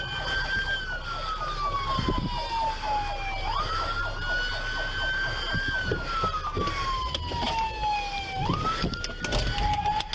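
Police car siren on wail: each cycle sweeps quickly up, holds briefly and falls slowly, repeating about every five seconds, and it switches to a lower tone near the end. Scattered knocks and clicks sound under it.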